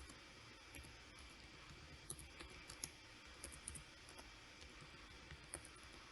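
Faint, irregular clicking of a computer mouse and keyboard, about a dozen sharp clicks, some in quick pairs, over a low steady background hiss.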